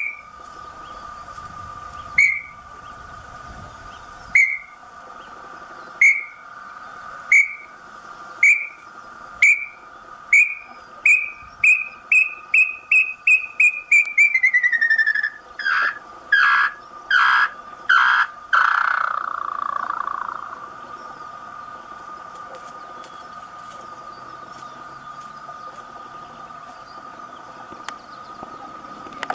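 Small-billed tinamou singing: a series of clear whistled notes, spaced about two seconds apart at first, that speed up into a rapid run and slide down in pitch, then end with a few longer, louder notes. A steady high drone runs underneath.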